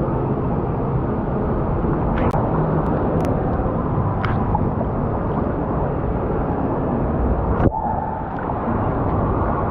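Rushing and sloshing water of a fast-current river ride, heard close from a rider floating in it. A few sharp knocks cut through it, the loudest about three-quarters of the way in.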